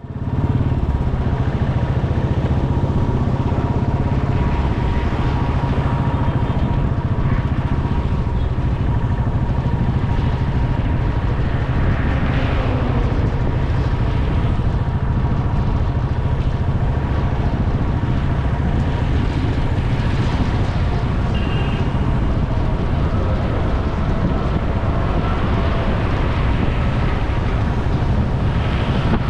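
Steady rumble of wind and road noise on the microphone of a camera riding on a moving motorcycle, with the motorcycle and surrounding traffic running underneath.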